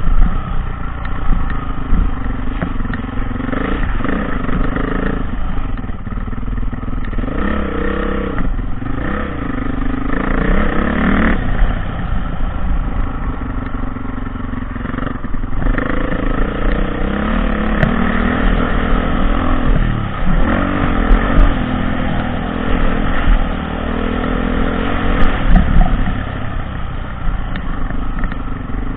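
Dirt bike engine running hard while being ridden, its revs climbing and dropping again and again.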